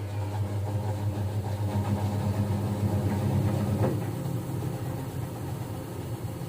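Whirlpool fully automatic top-load washing machine's motor turning the pulsator just after start, a steady low hum that grows louder through the middle and eases off near the end, as the machine shifts and arranges the clothes in the tub.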